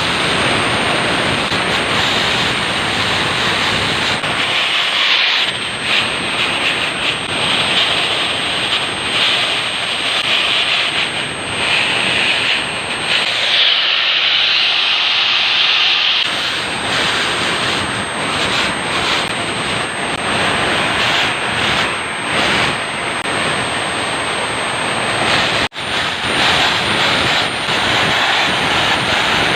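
Electric core drill running, its bit cutting into a concrete floor slab: a loud steady grinding with a thin high motor whine over it. It breaks off for an instant near the end.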